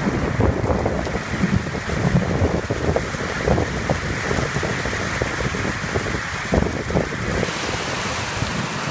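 Heavy thunderstorm rain pouring down steadily, with gusts of wind buffeting the phone's microphone.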